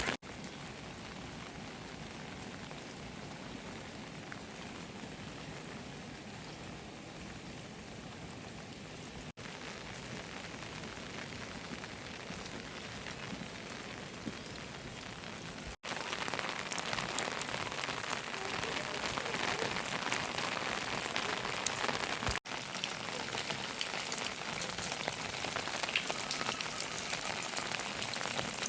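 Steady rain falling, growing louder a little past halfway. It breaks off for an instant three times.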